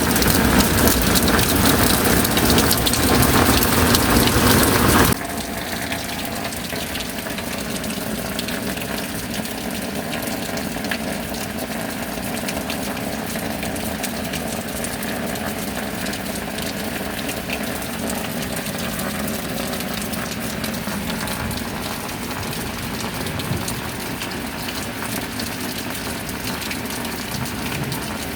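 Steady rain falling, heavy at first; about five seconds in it cuts off abruptly to a quieter, steadier rain with a faint low hum.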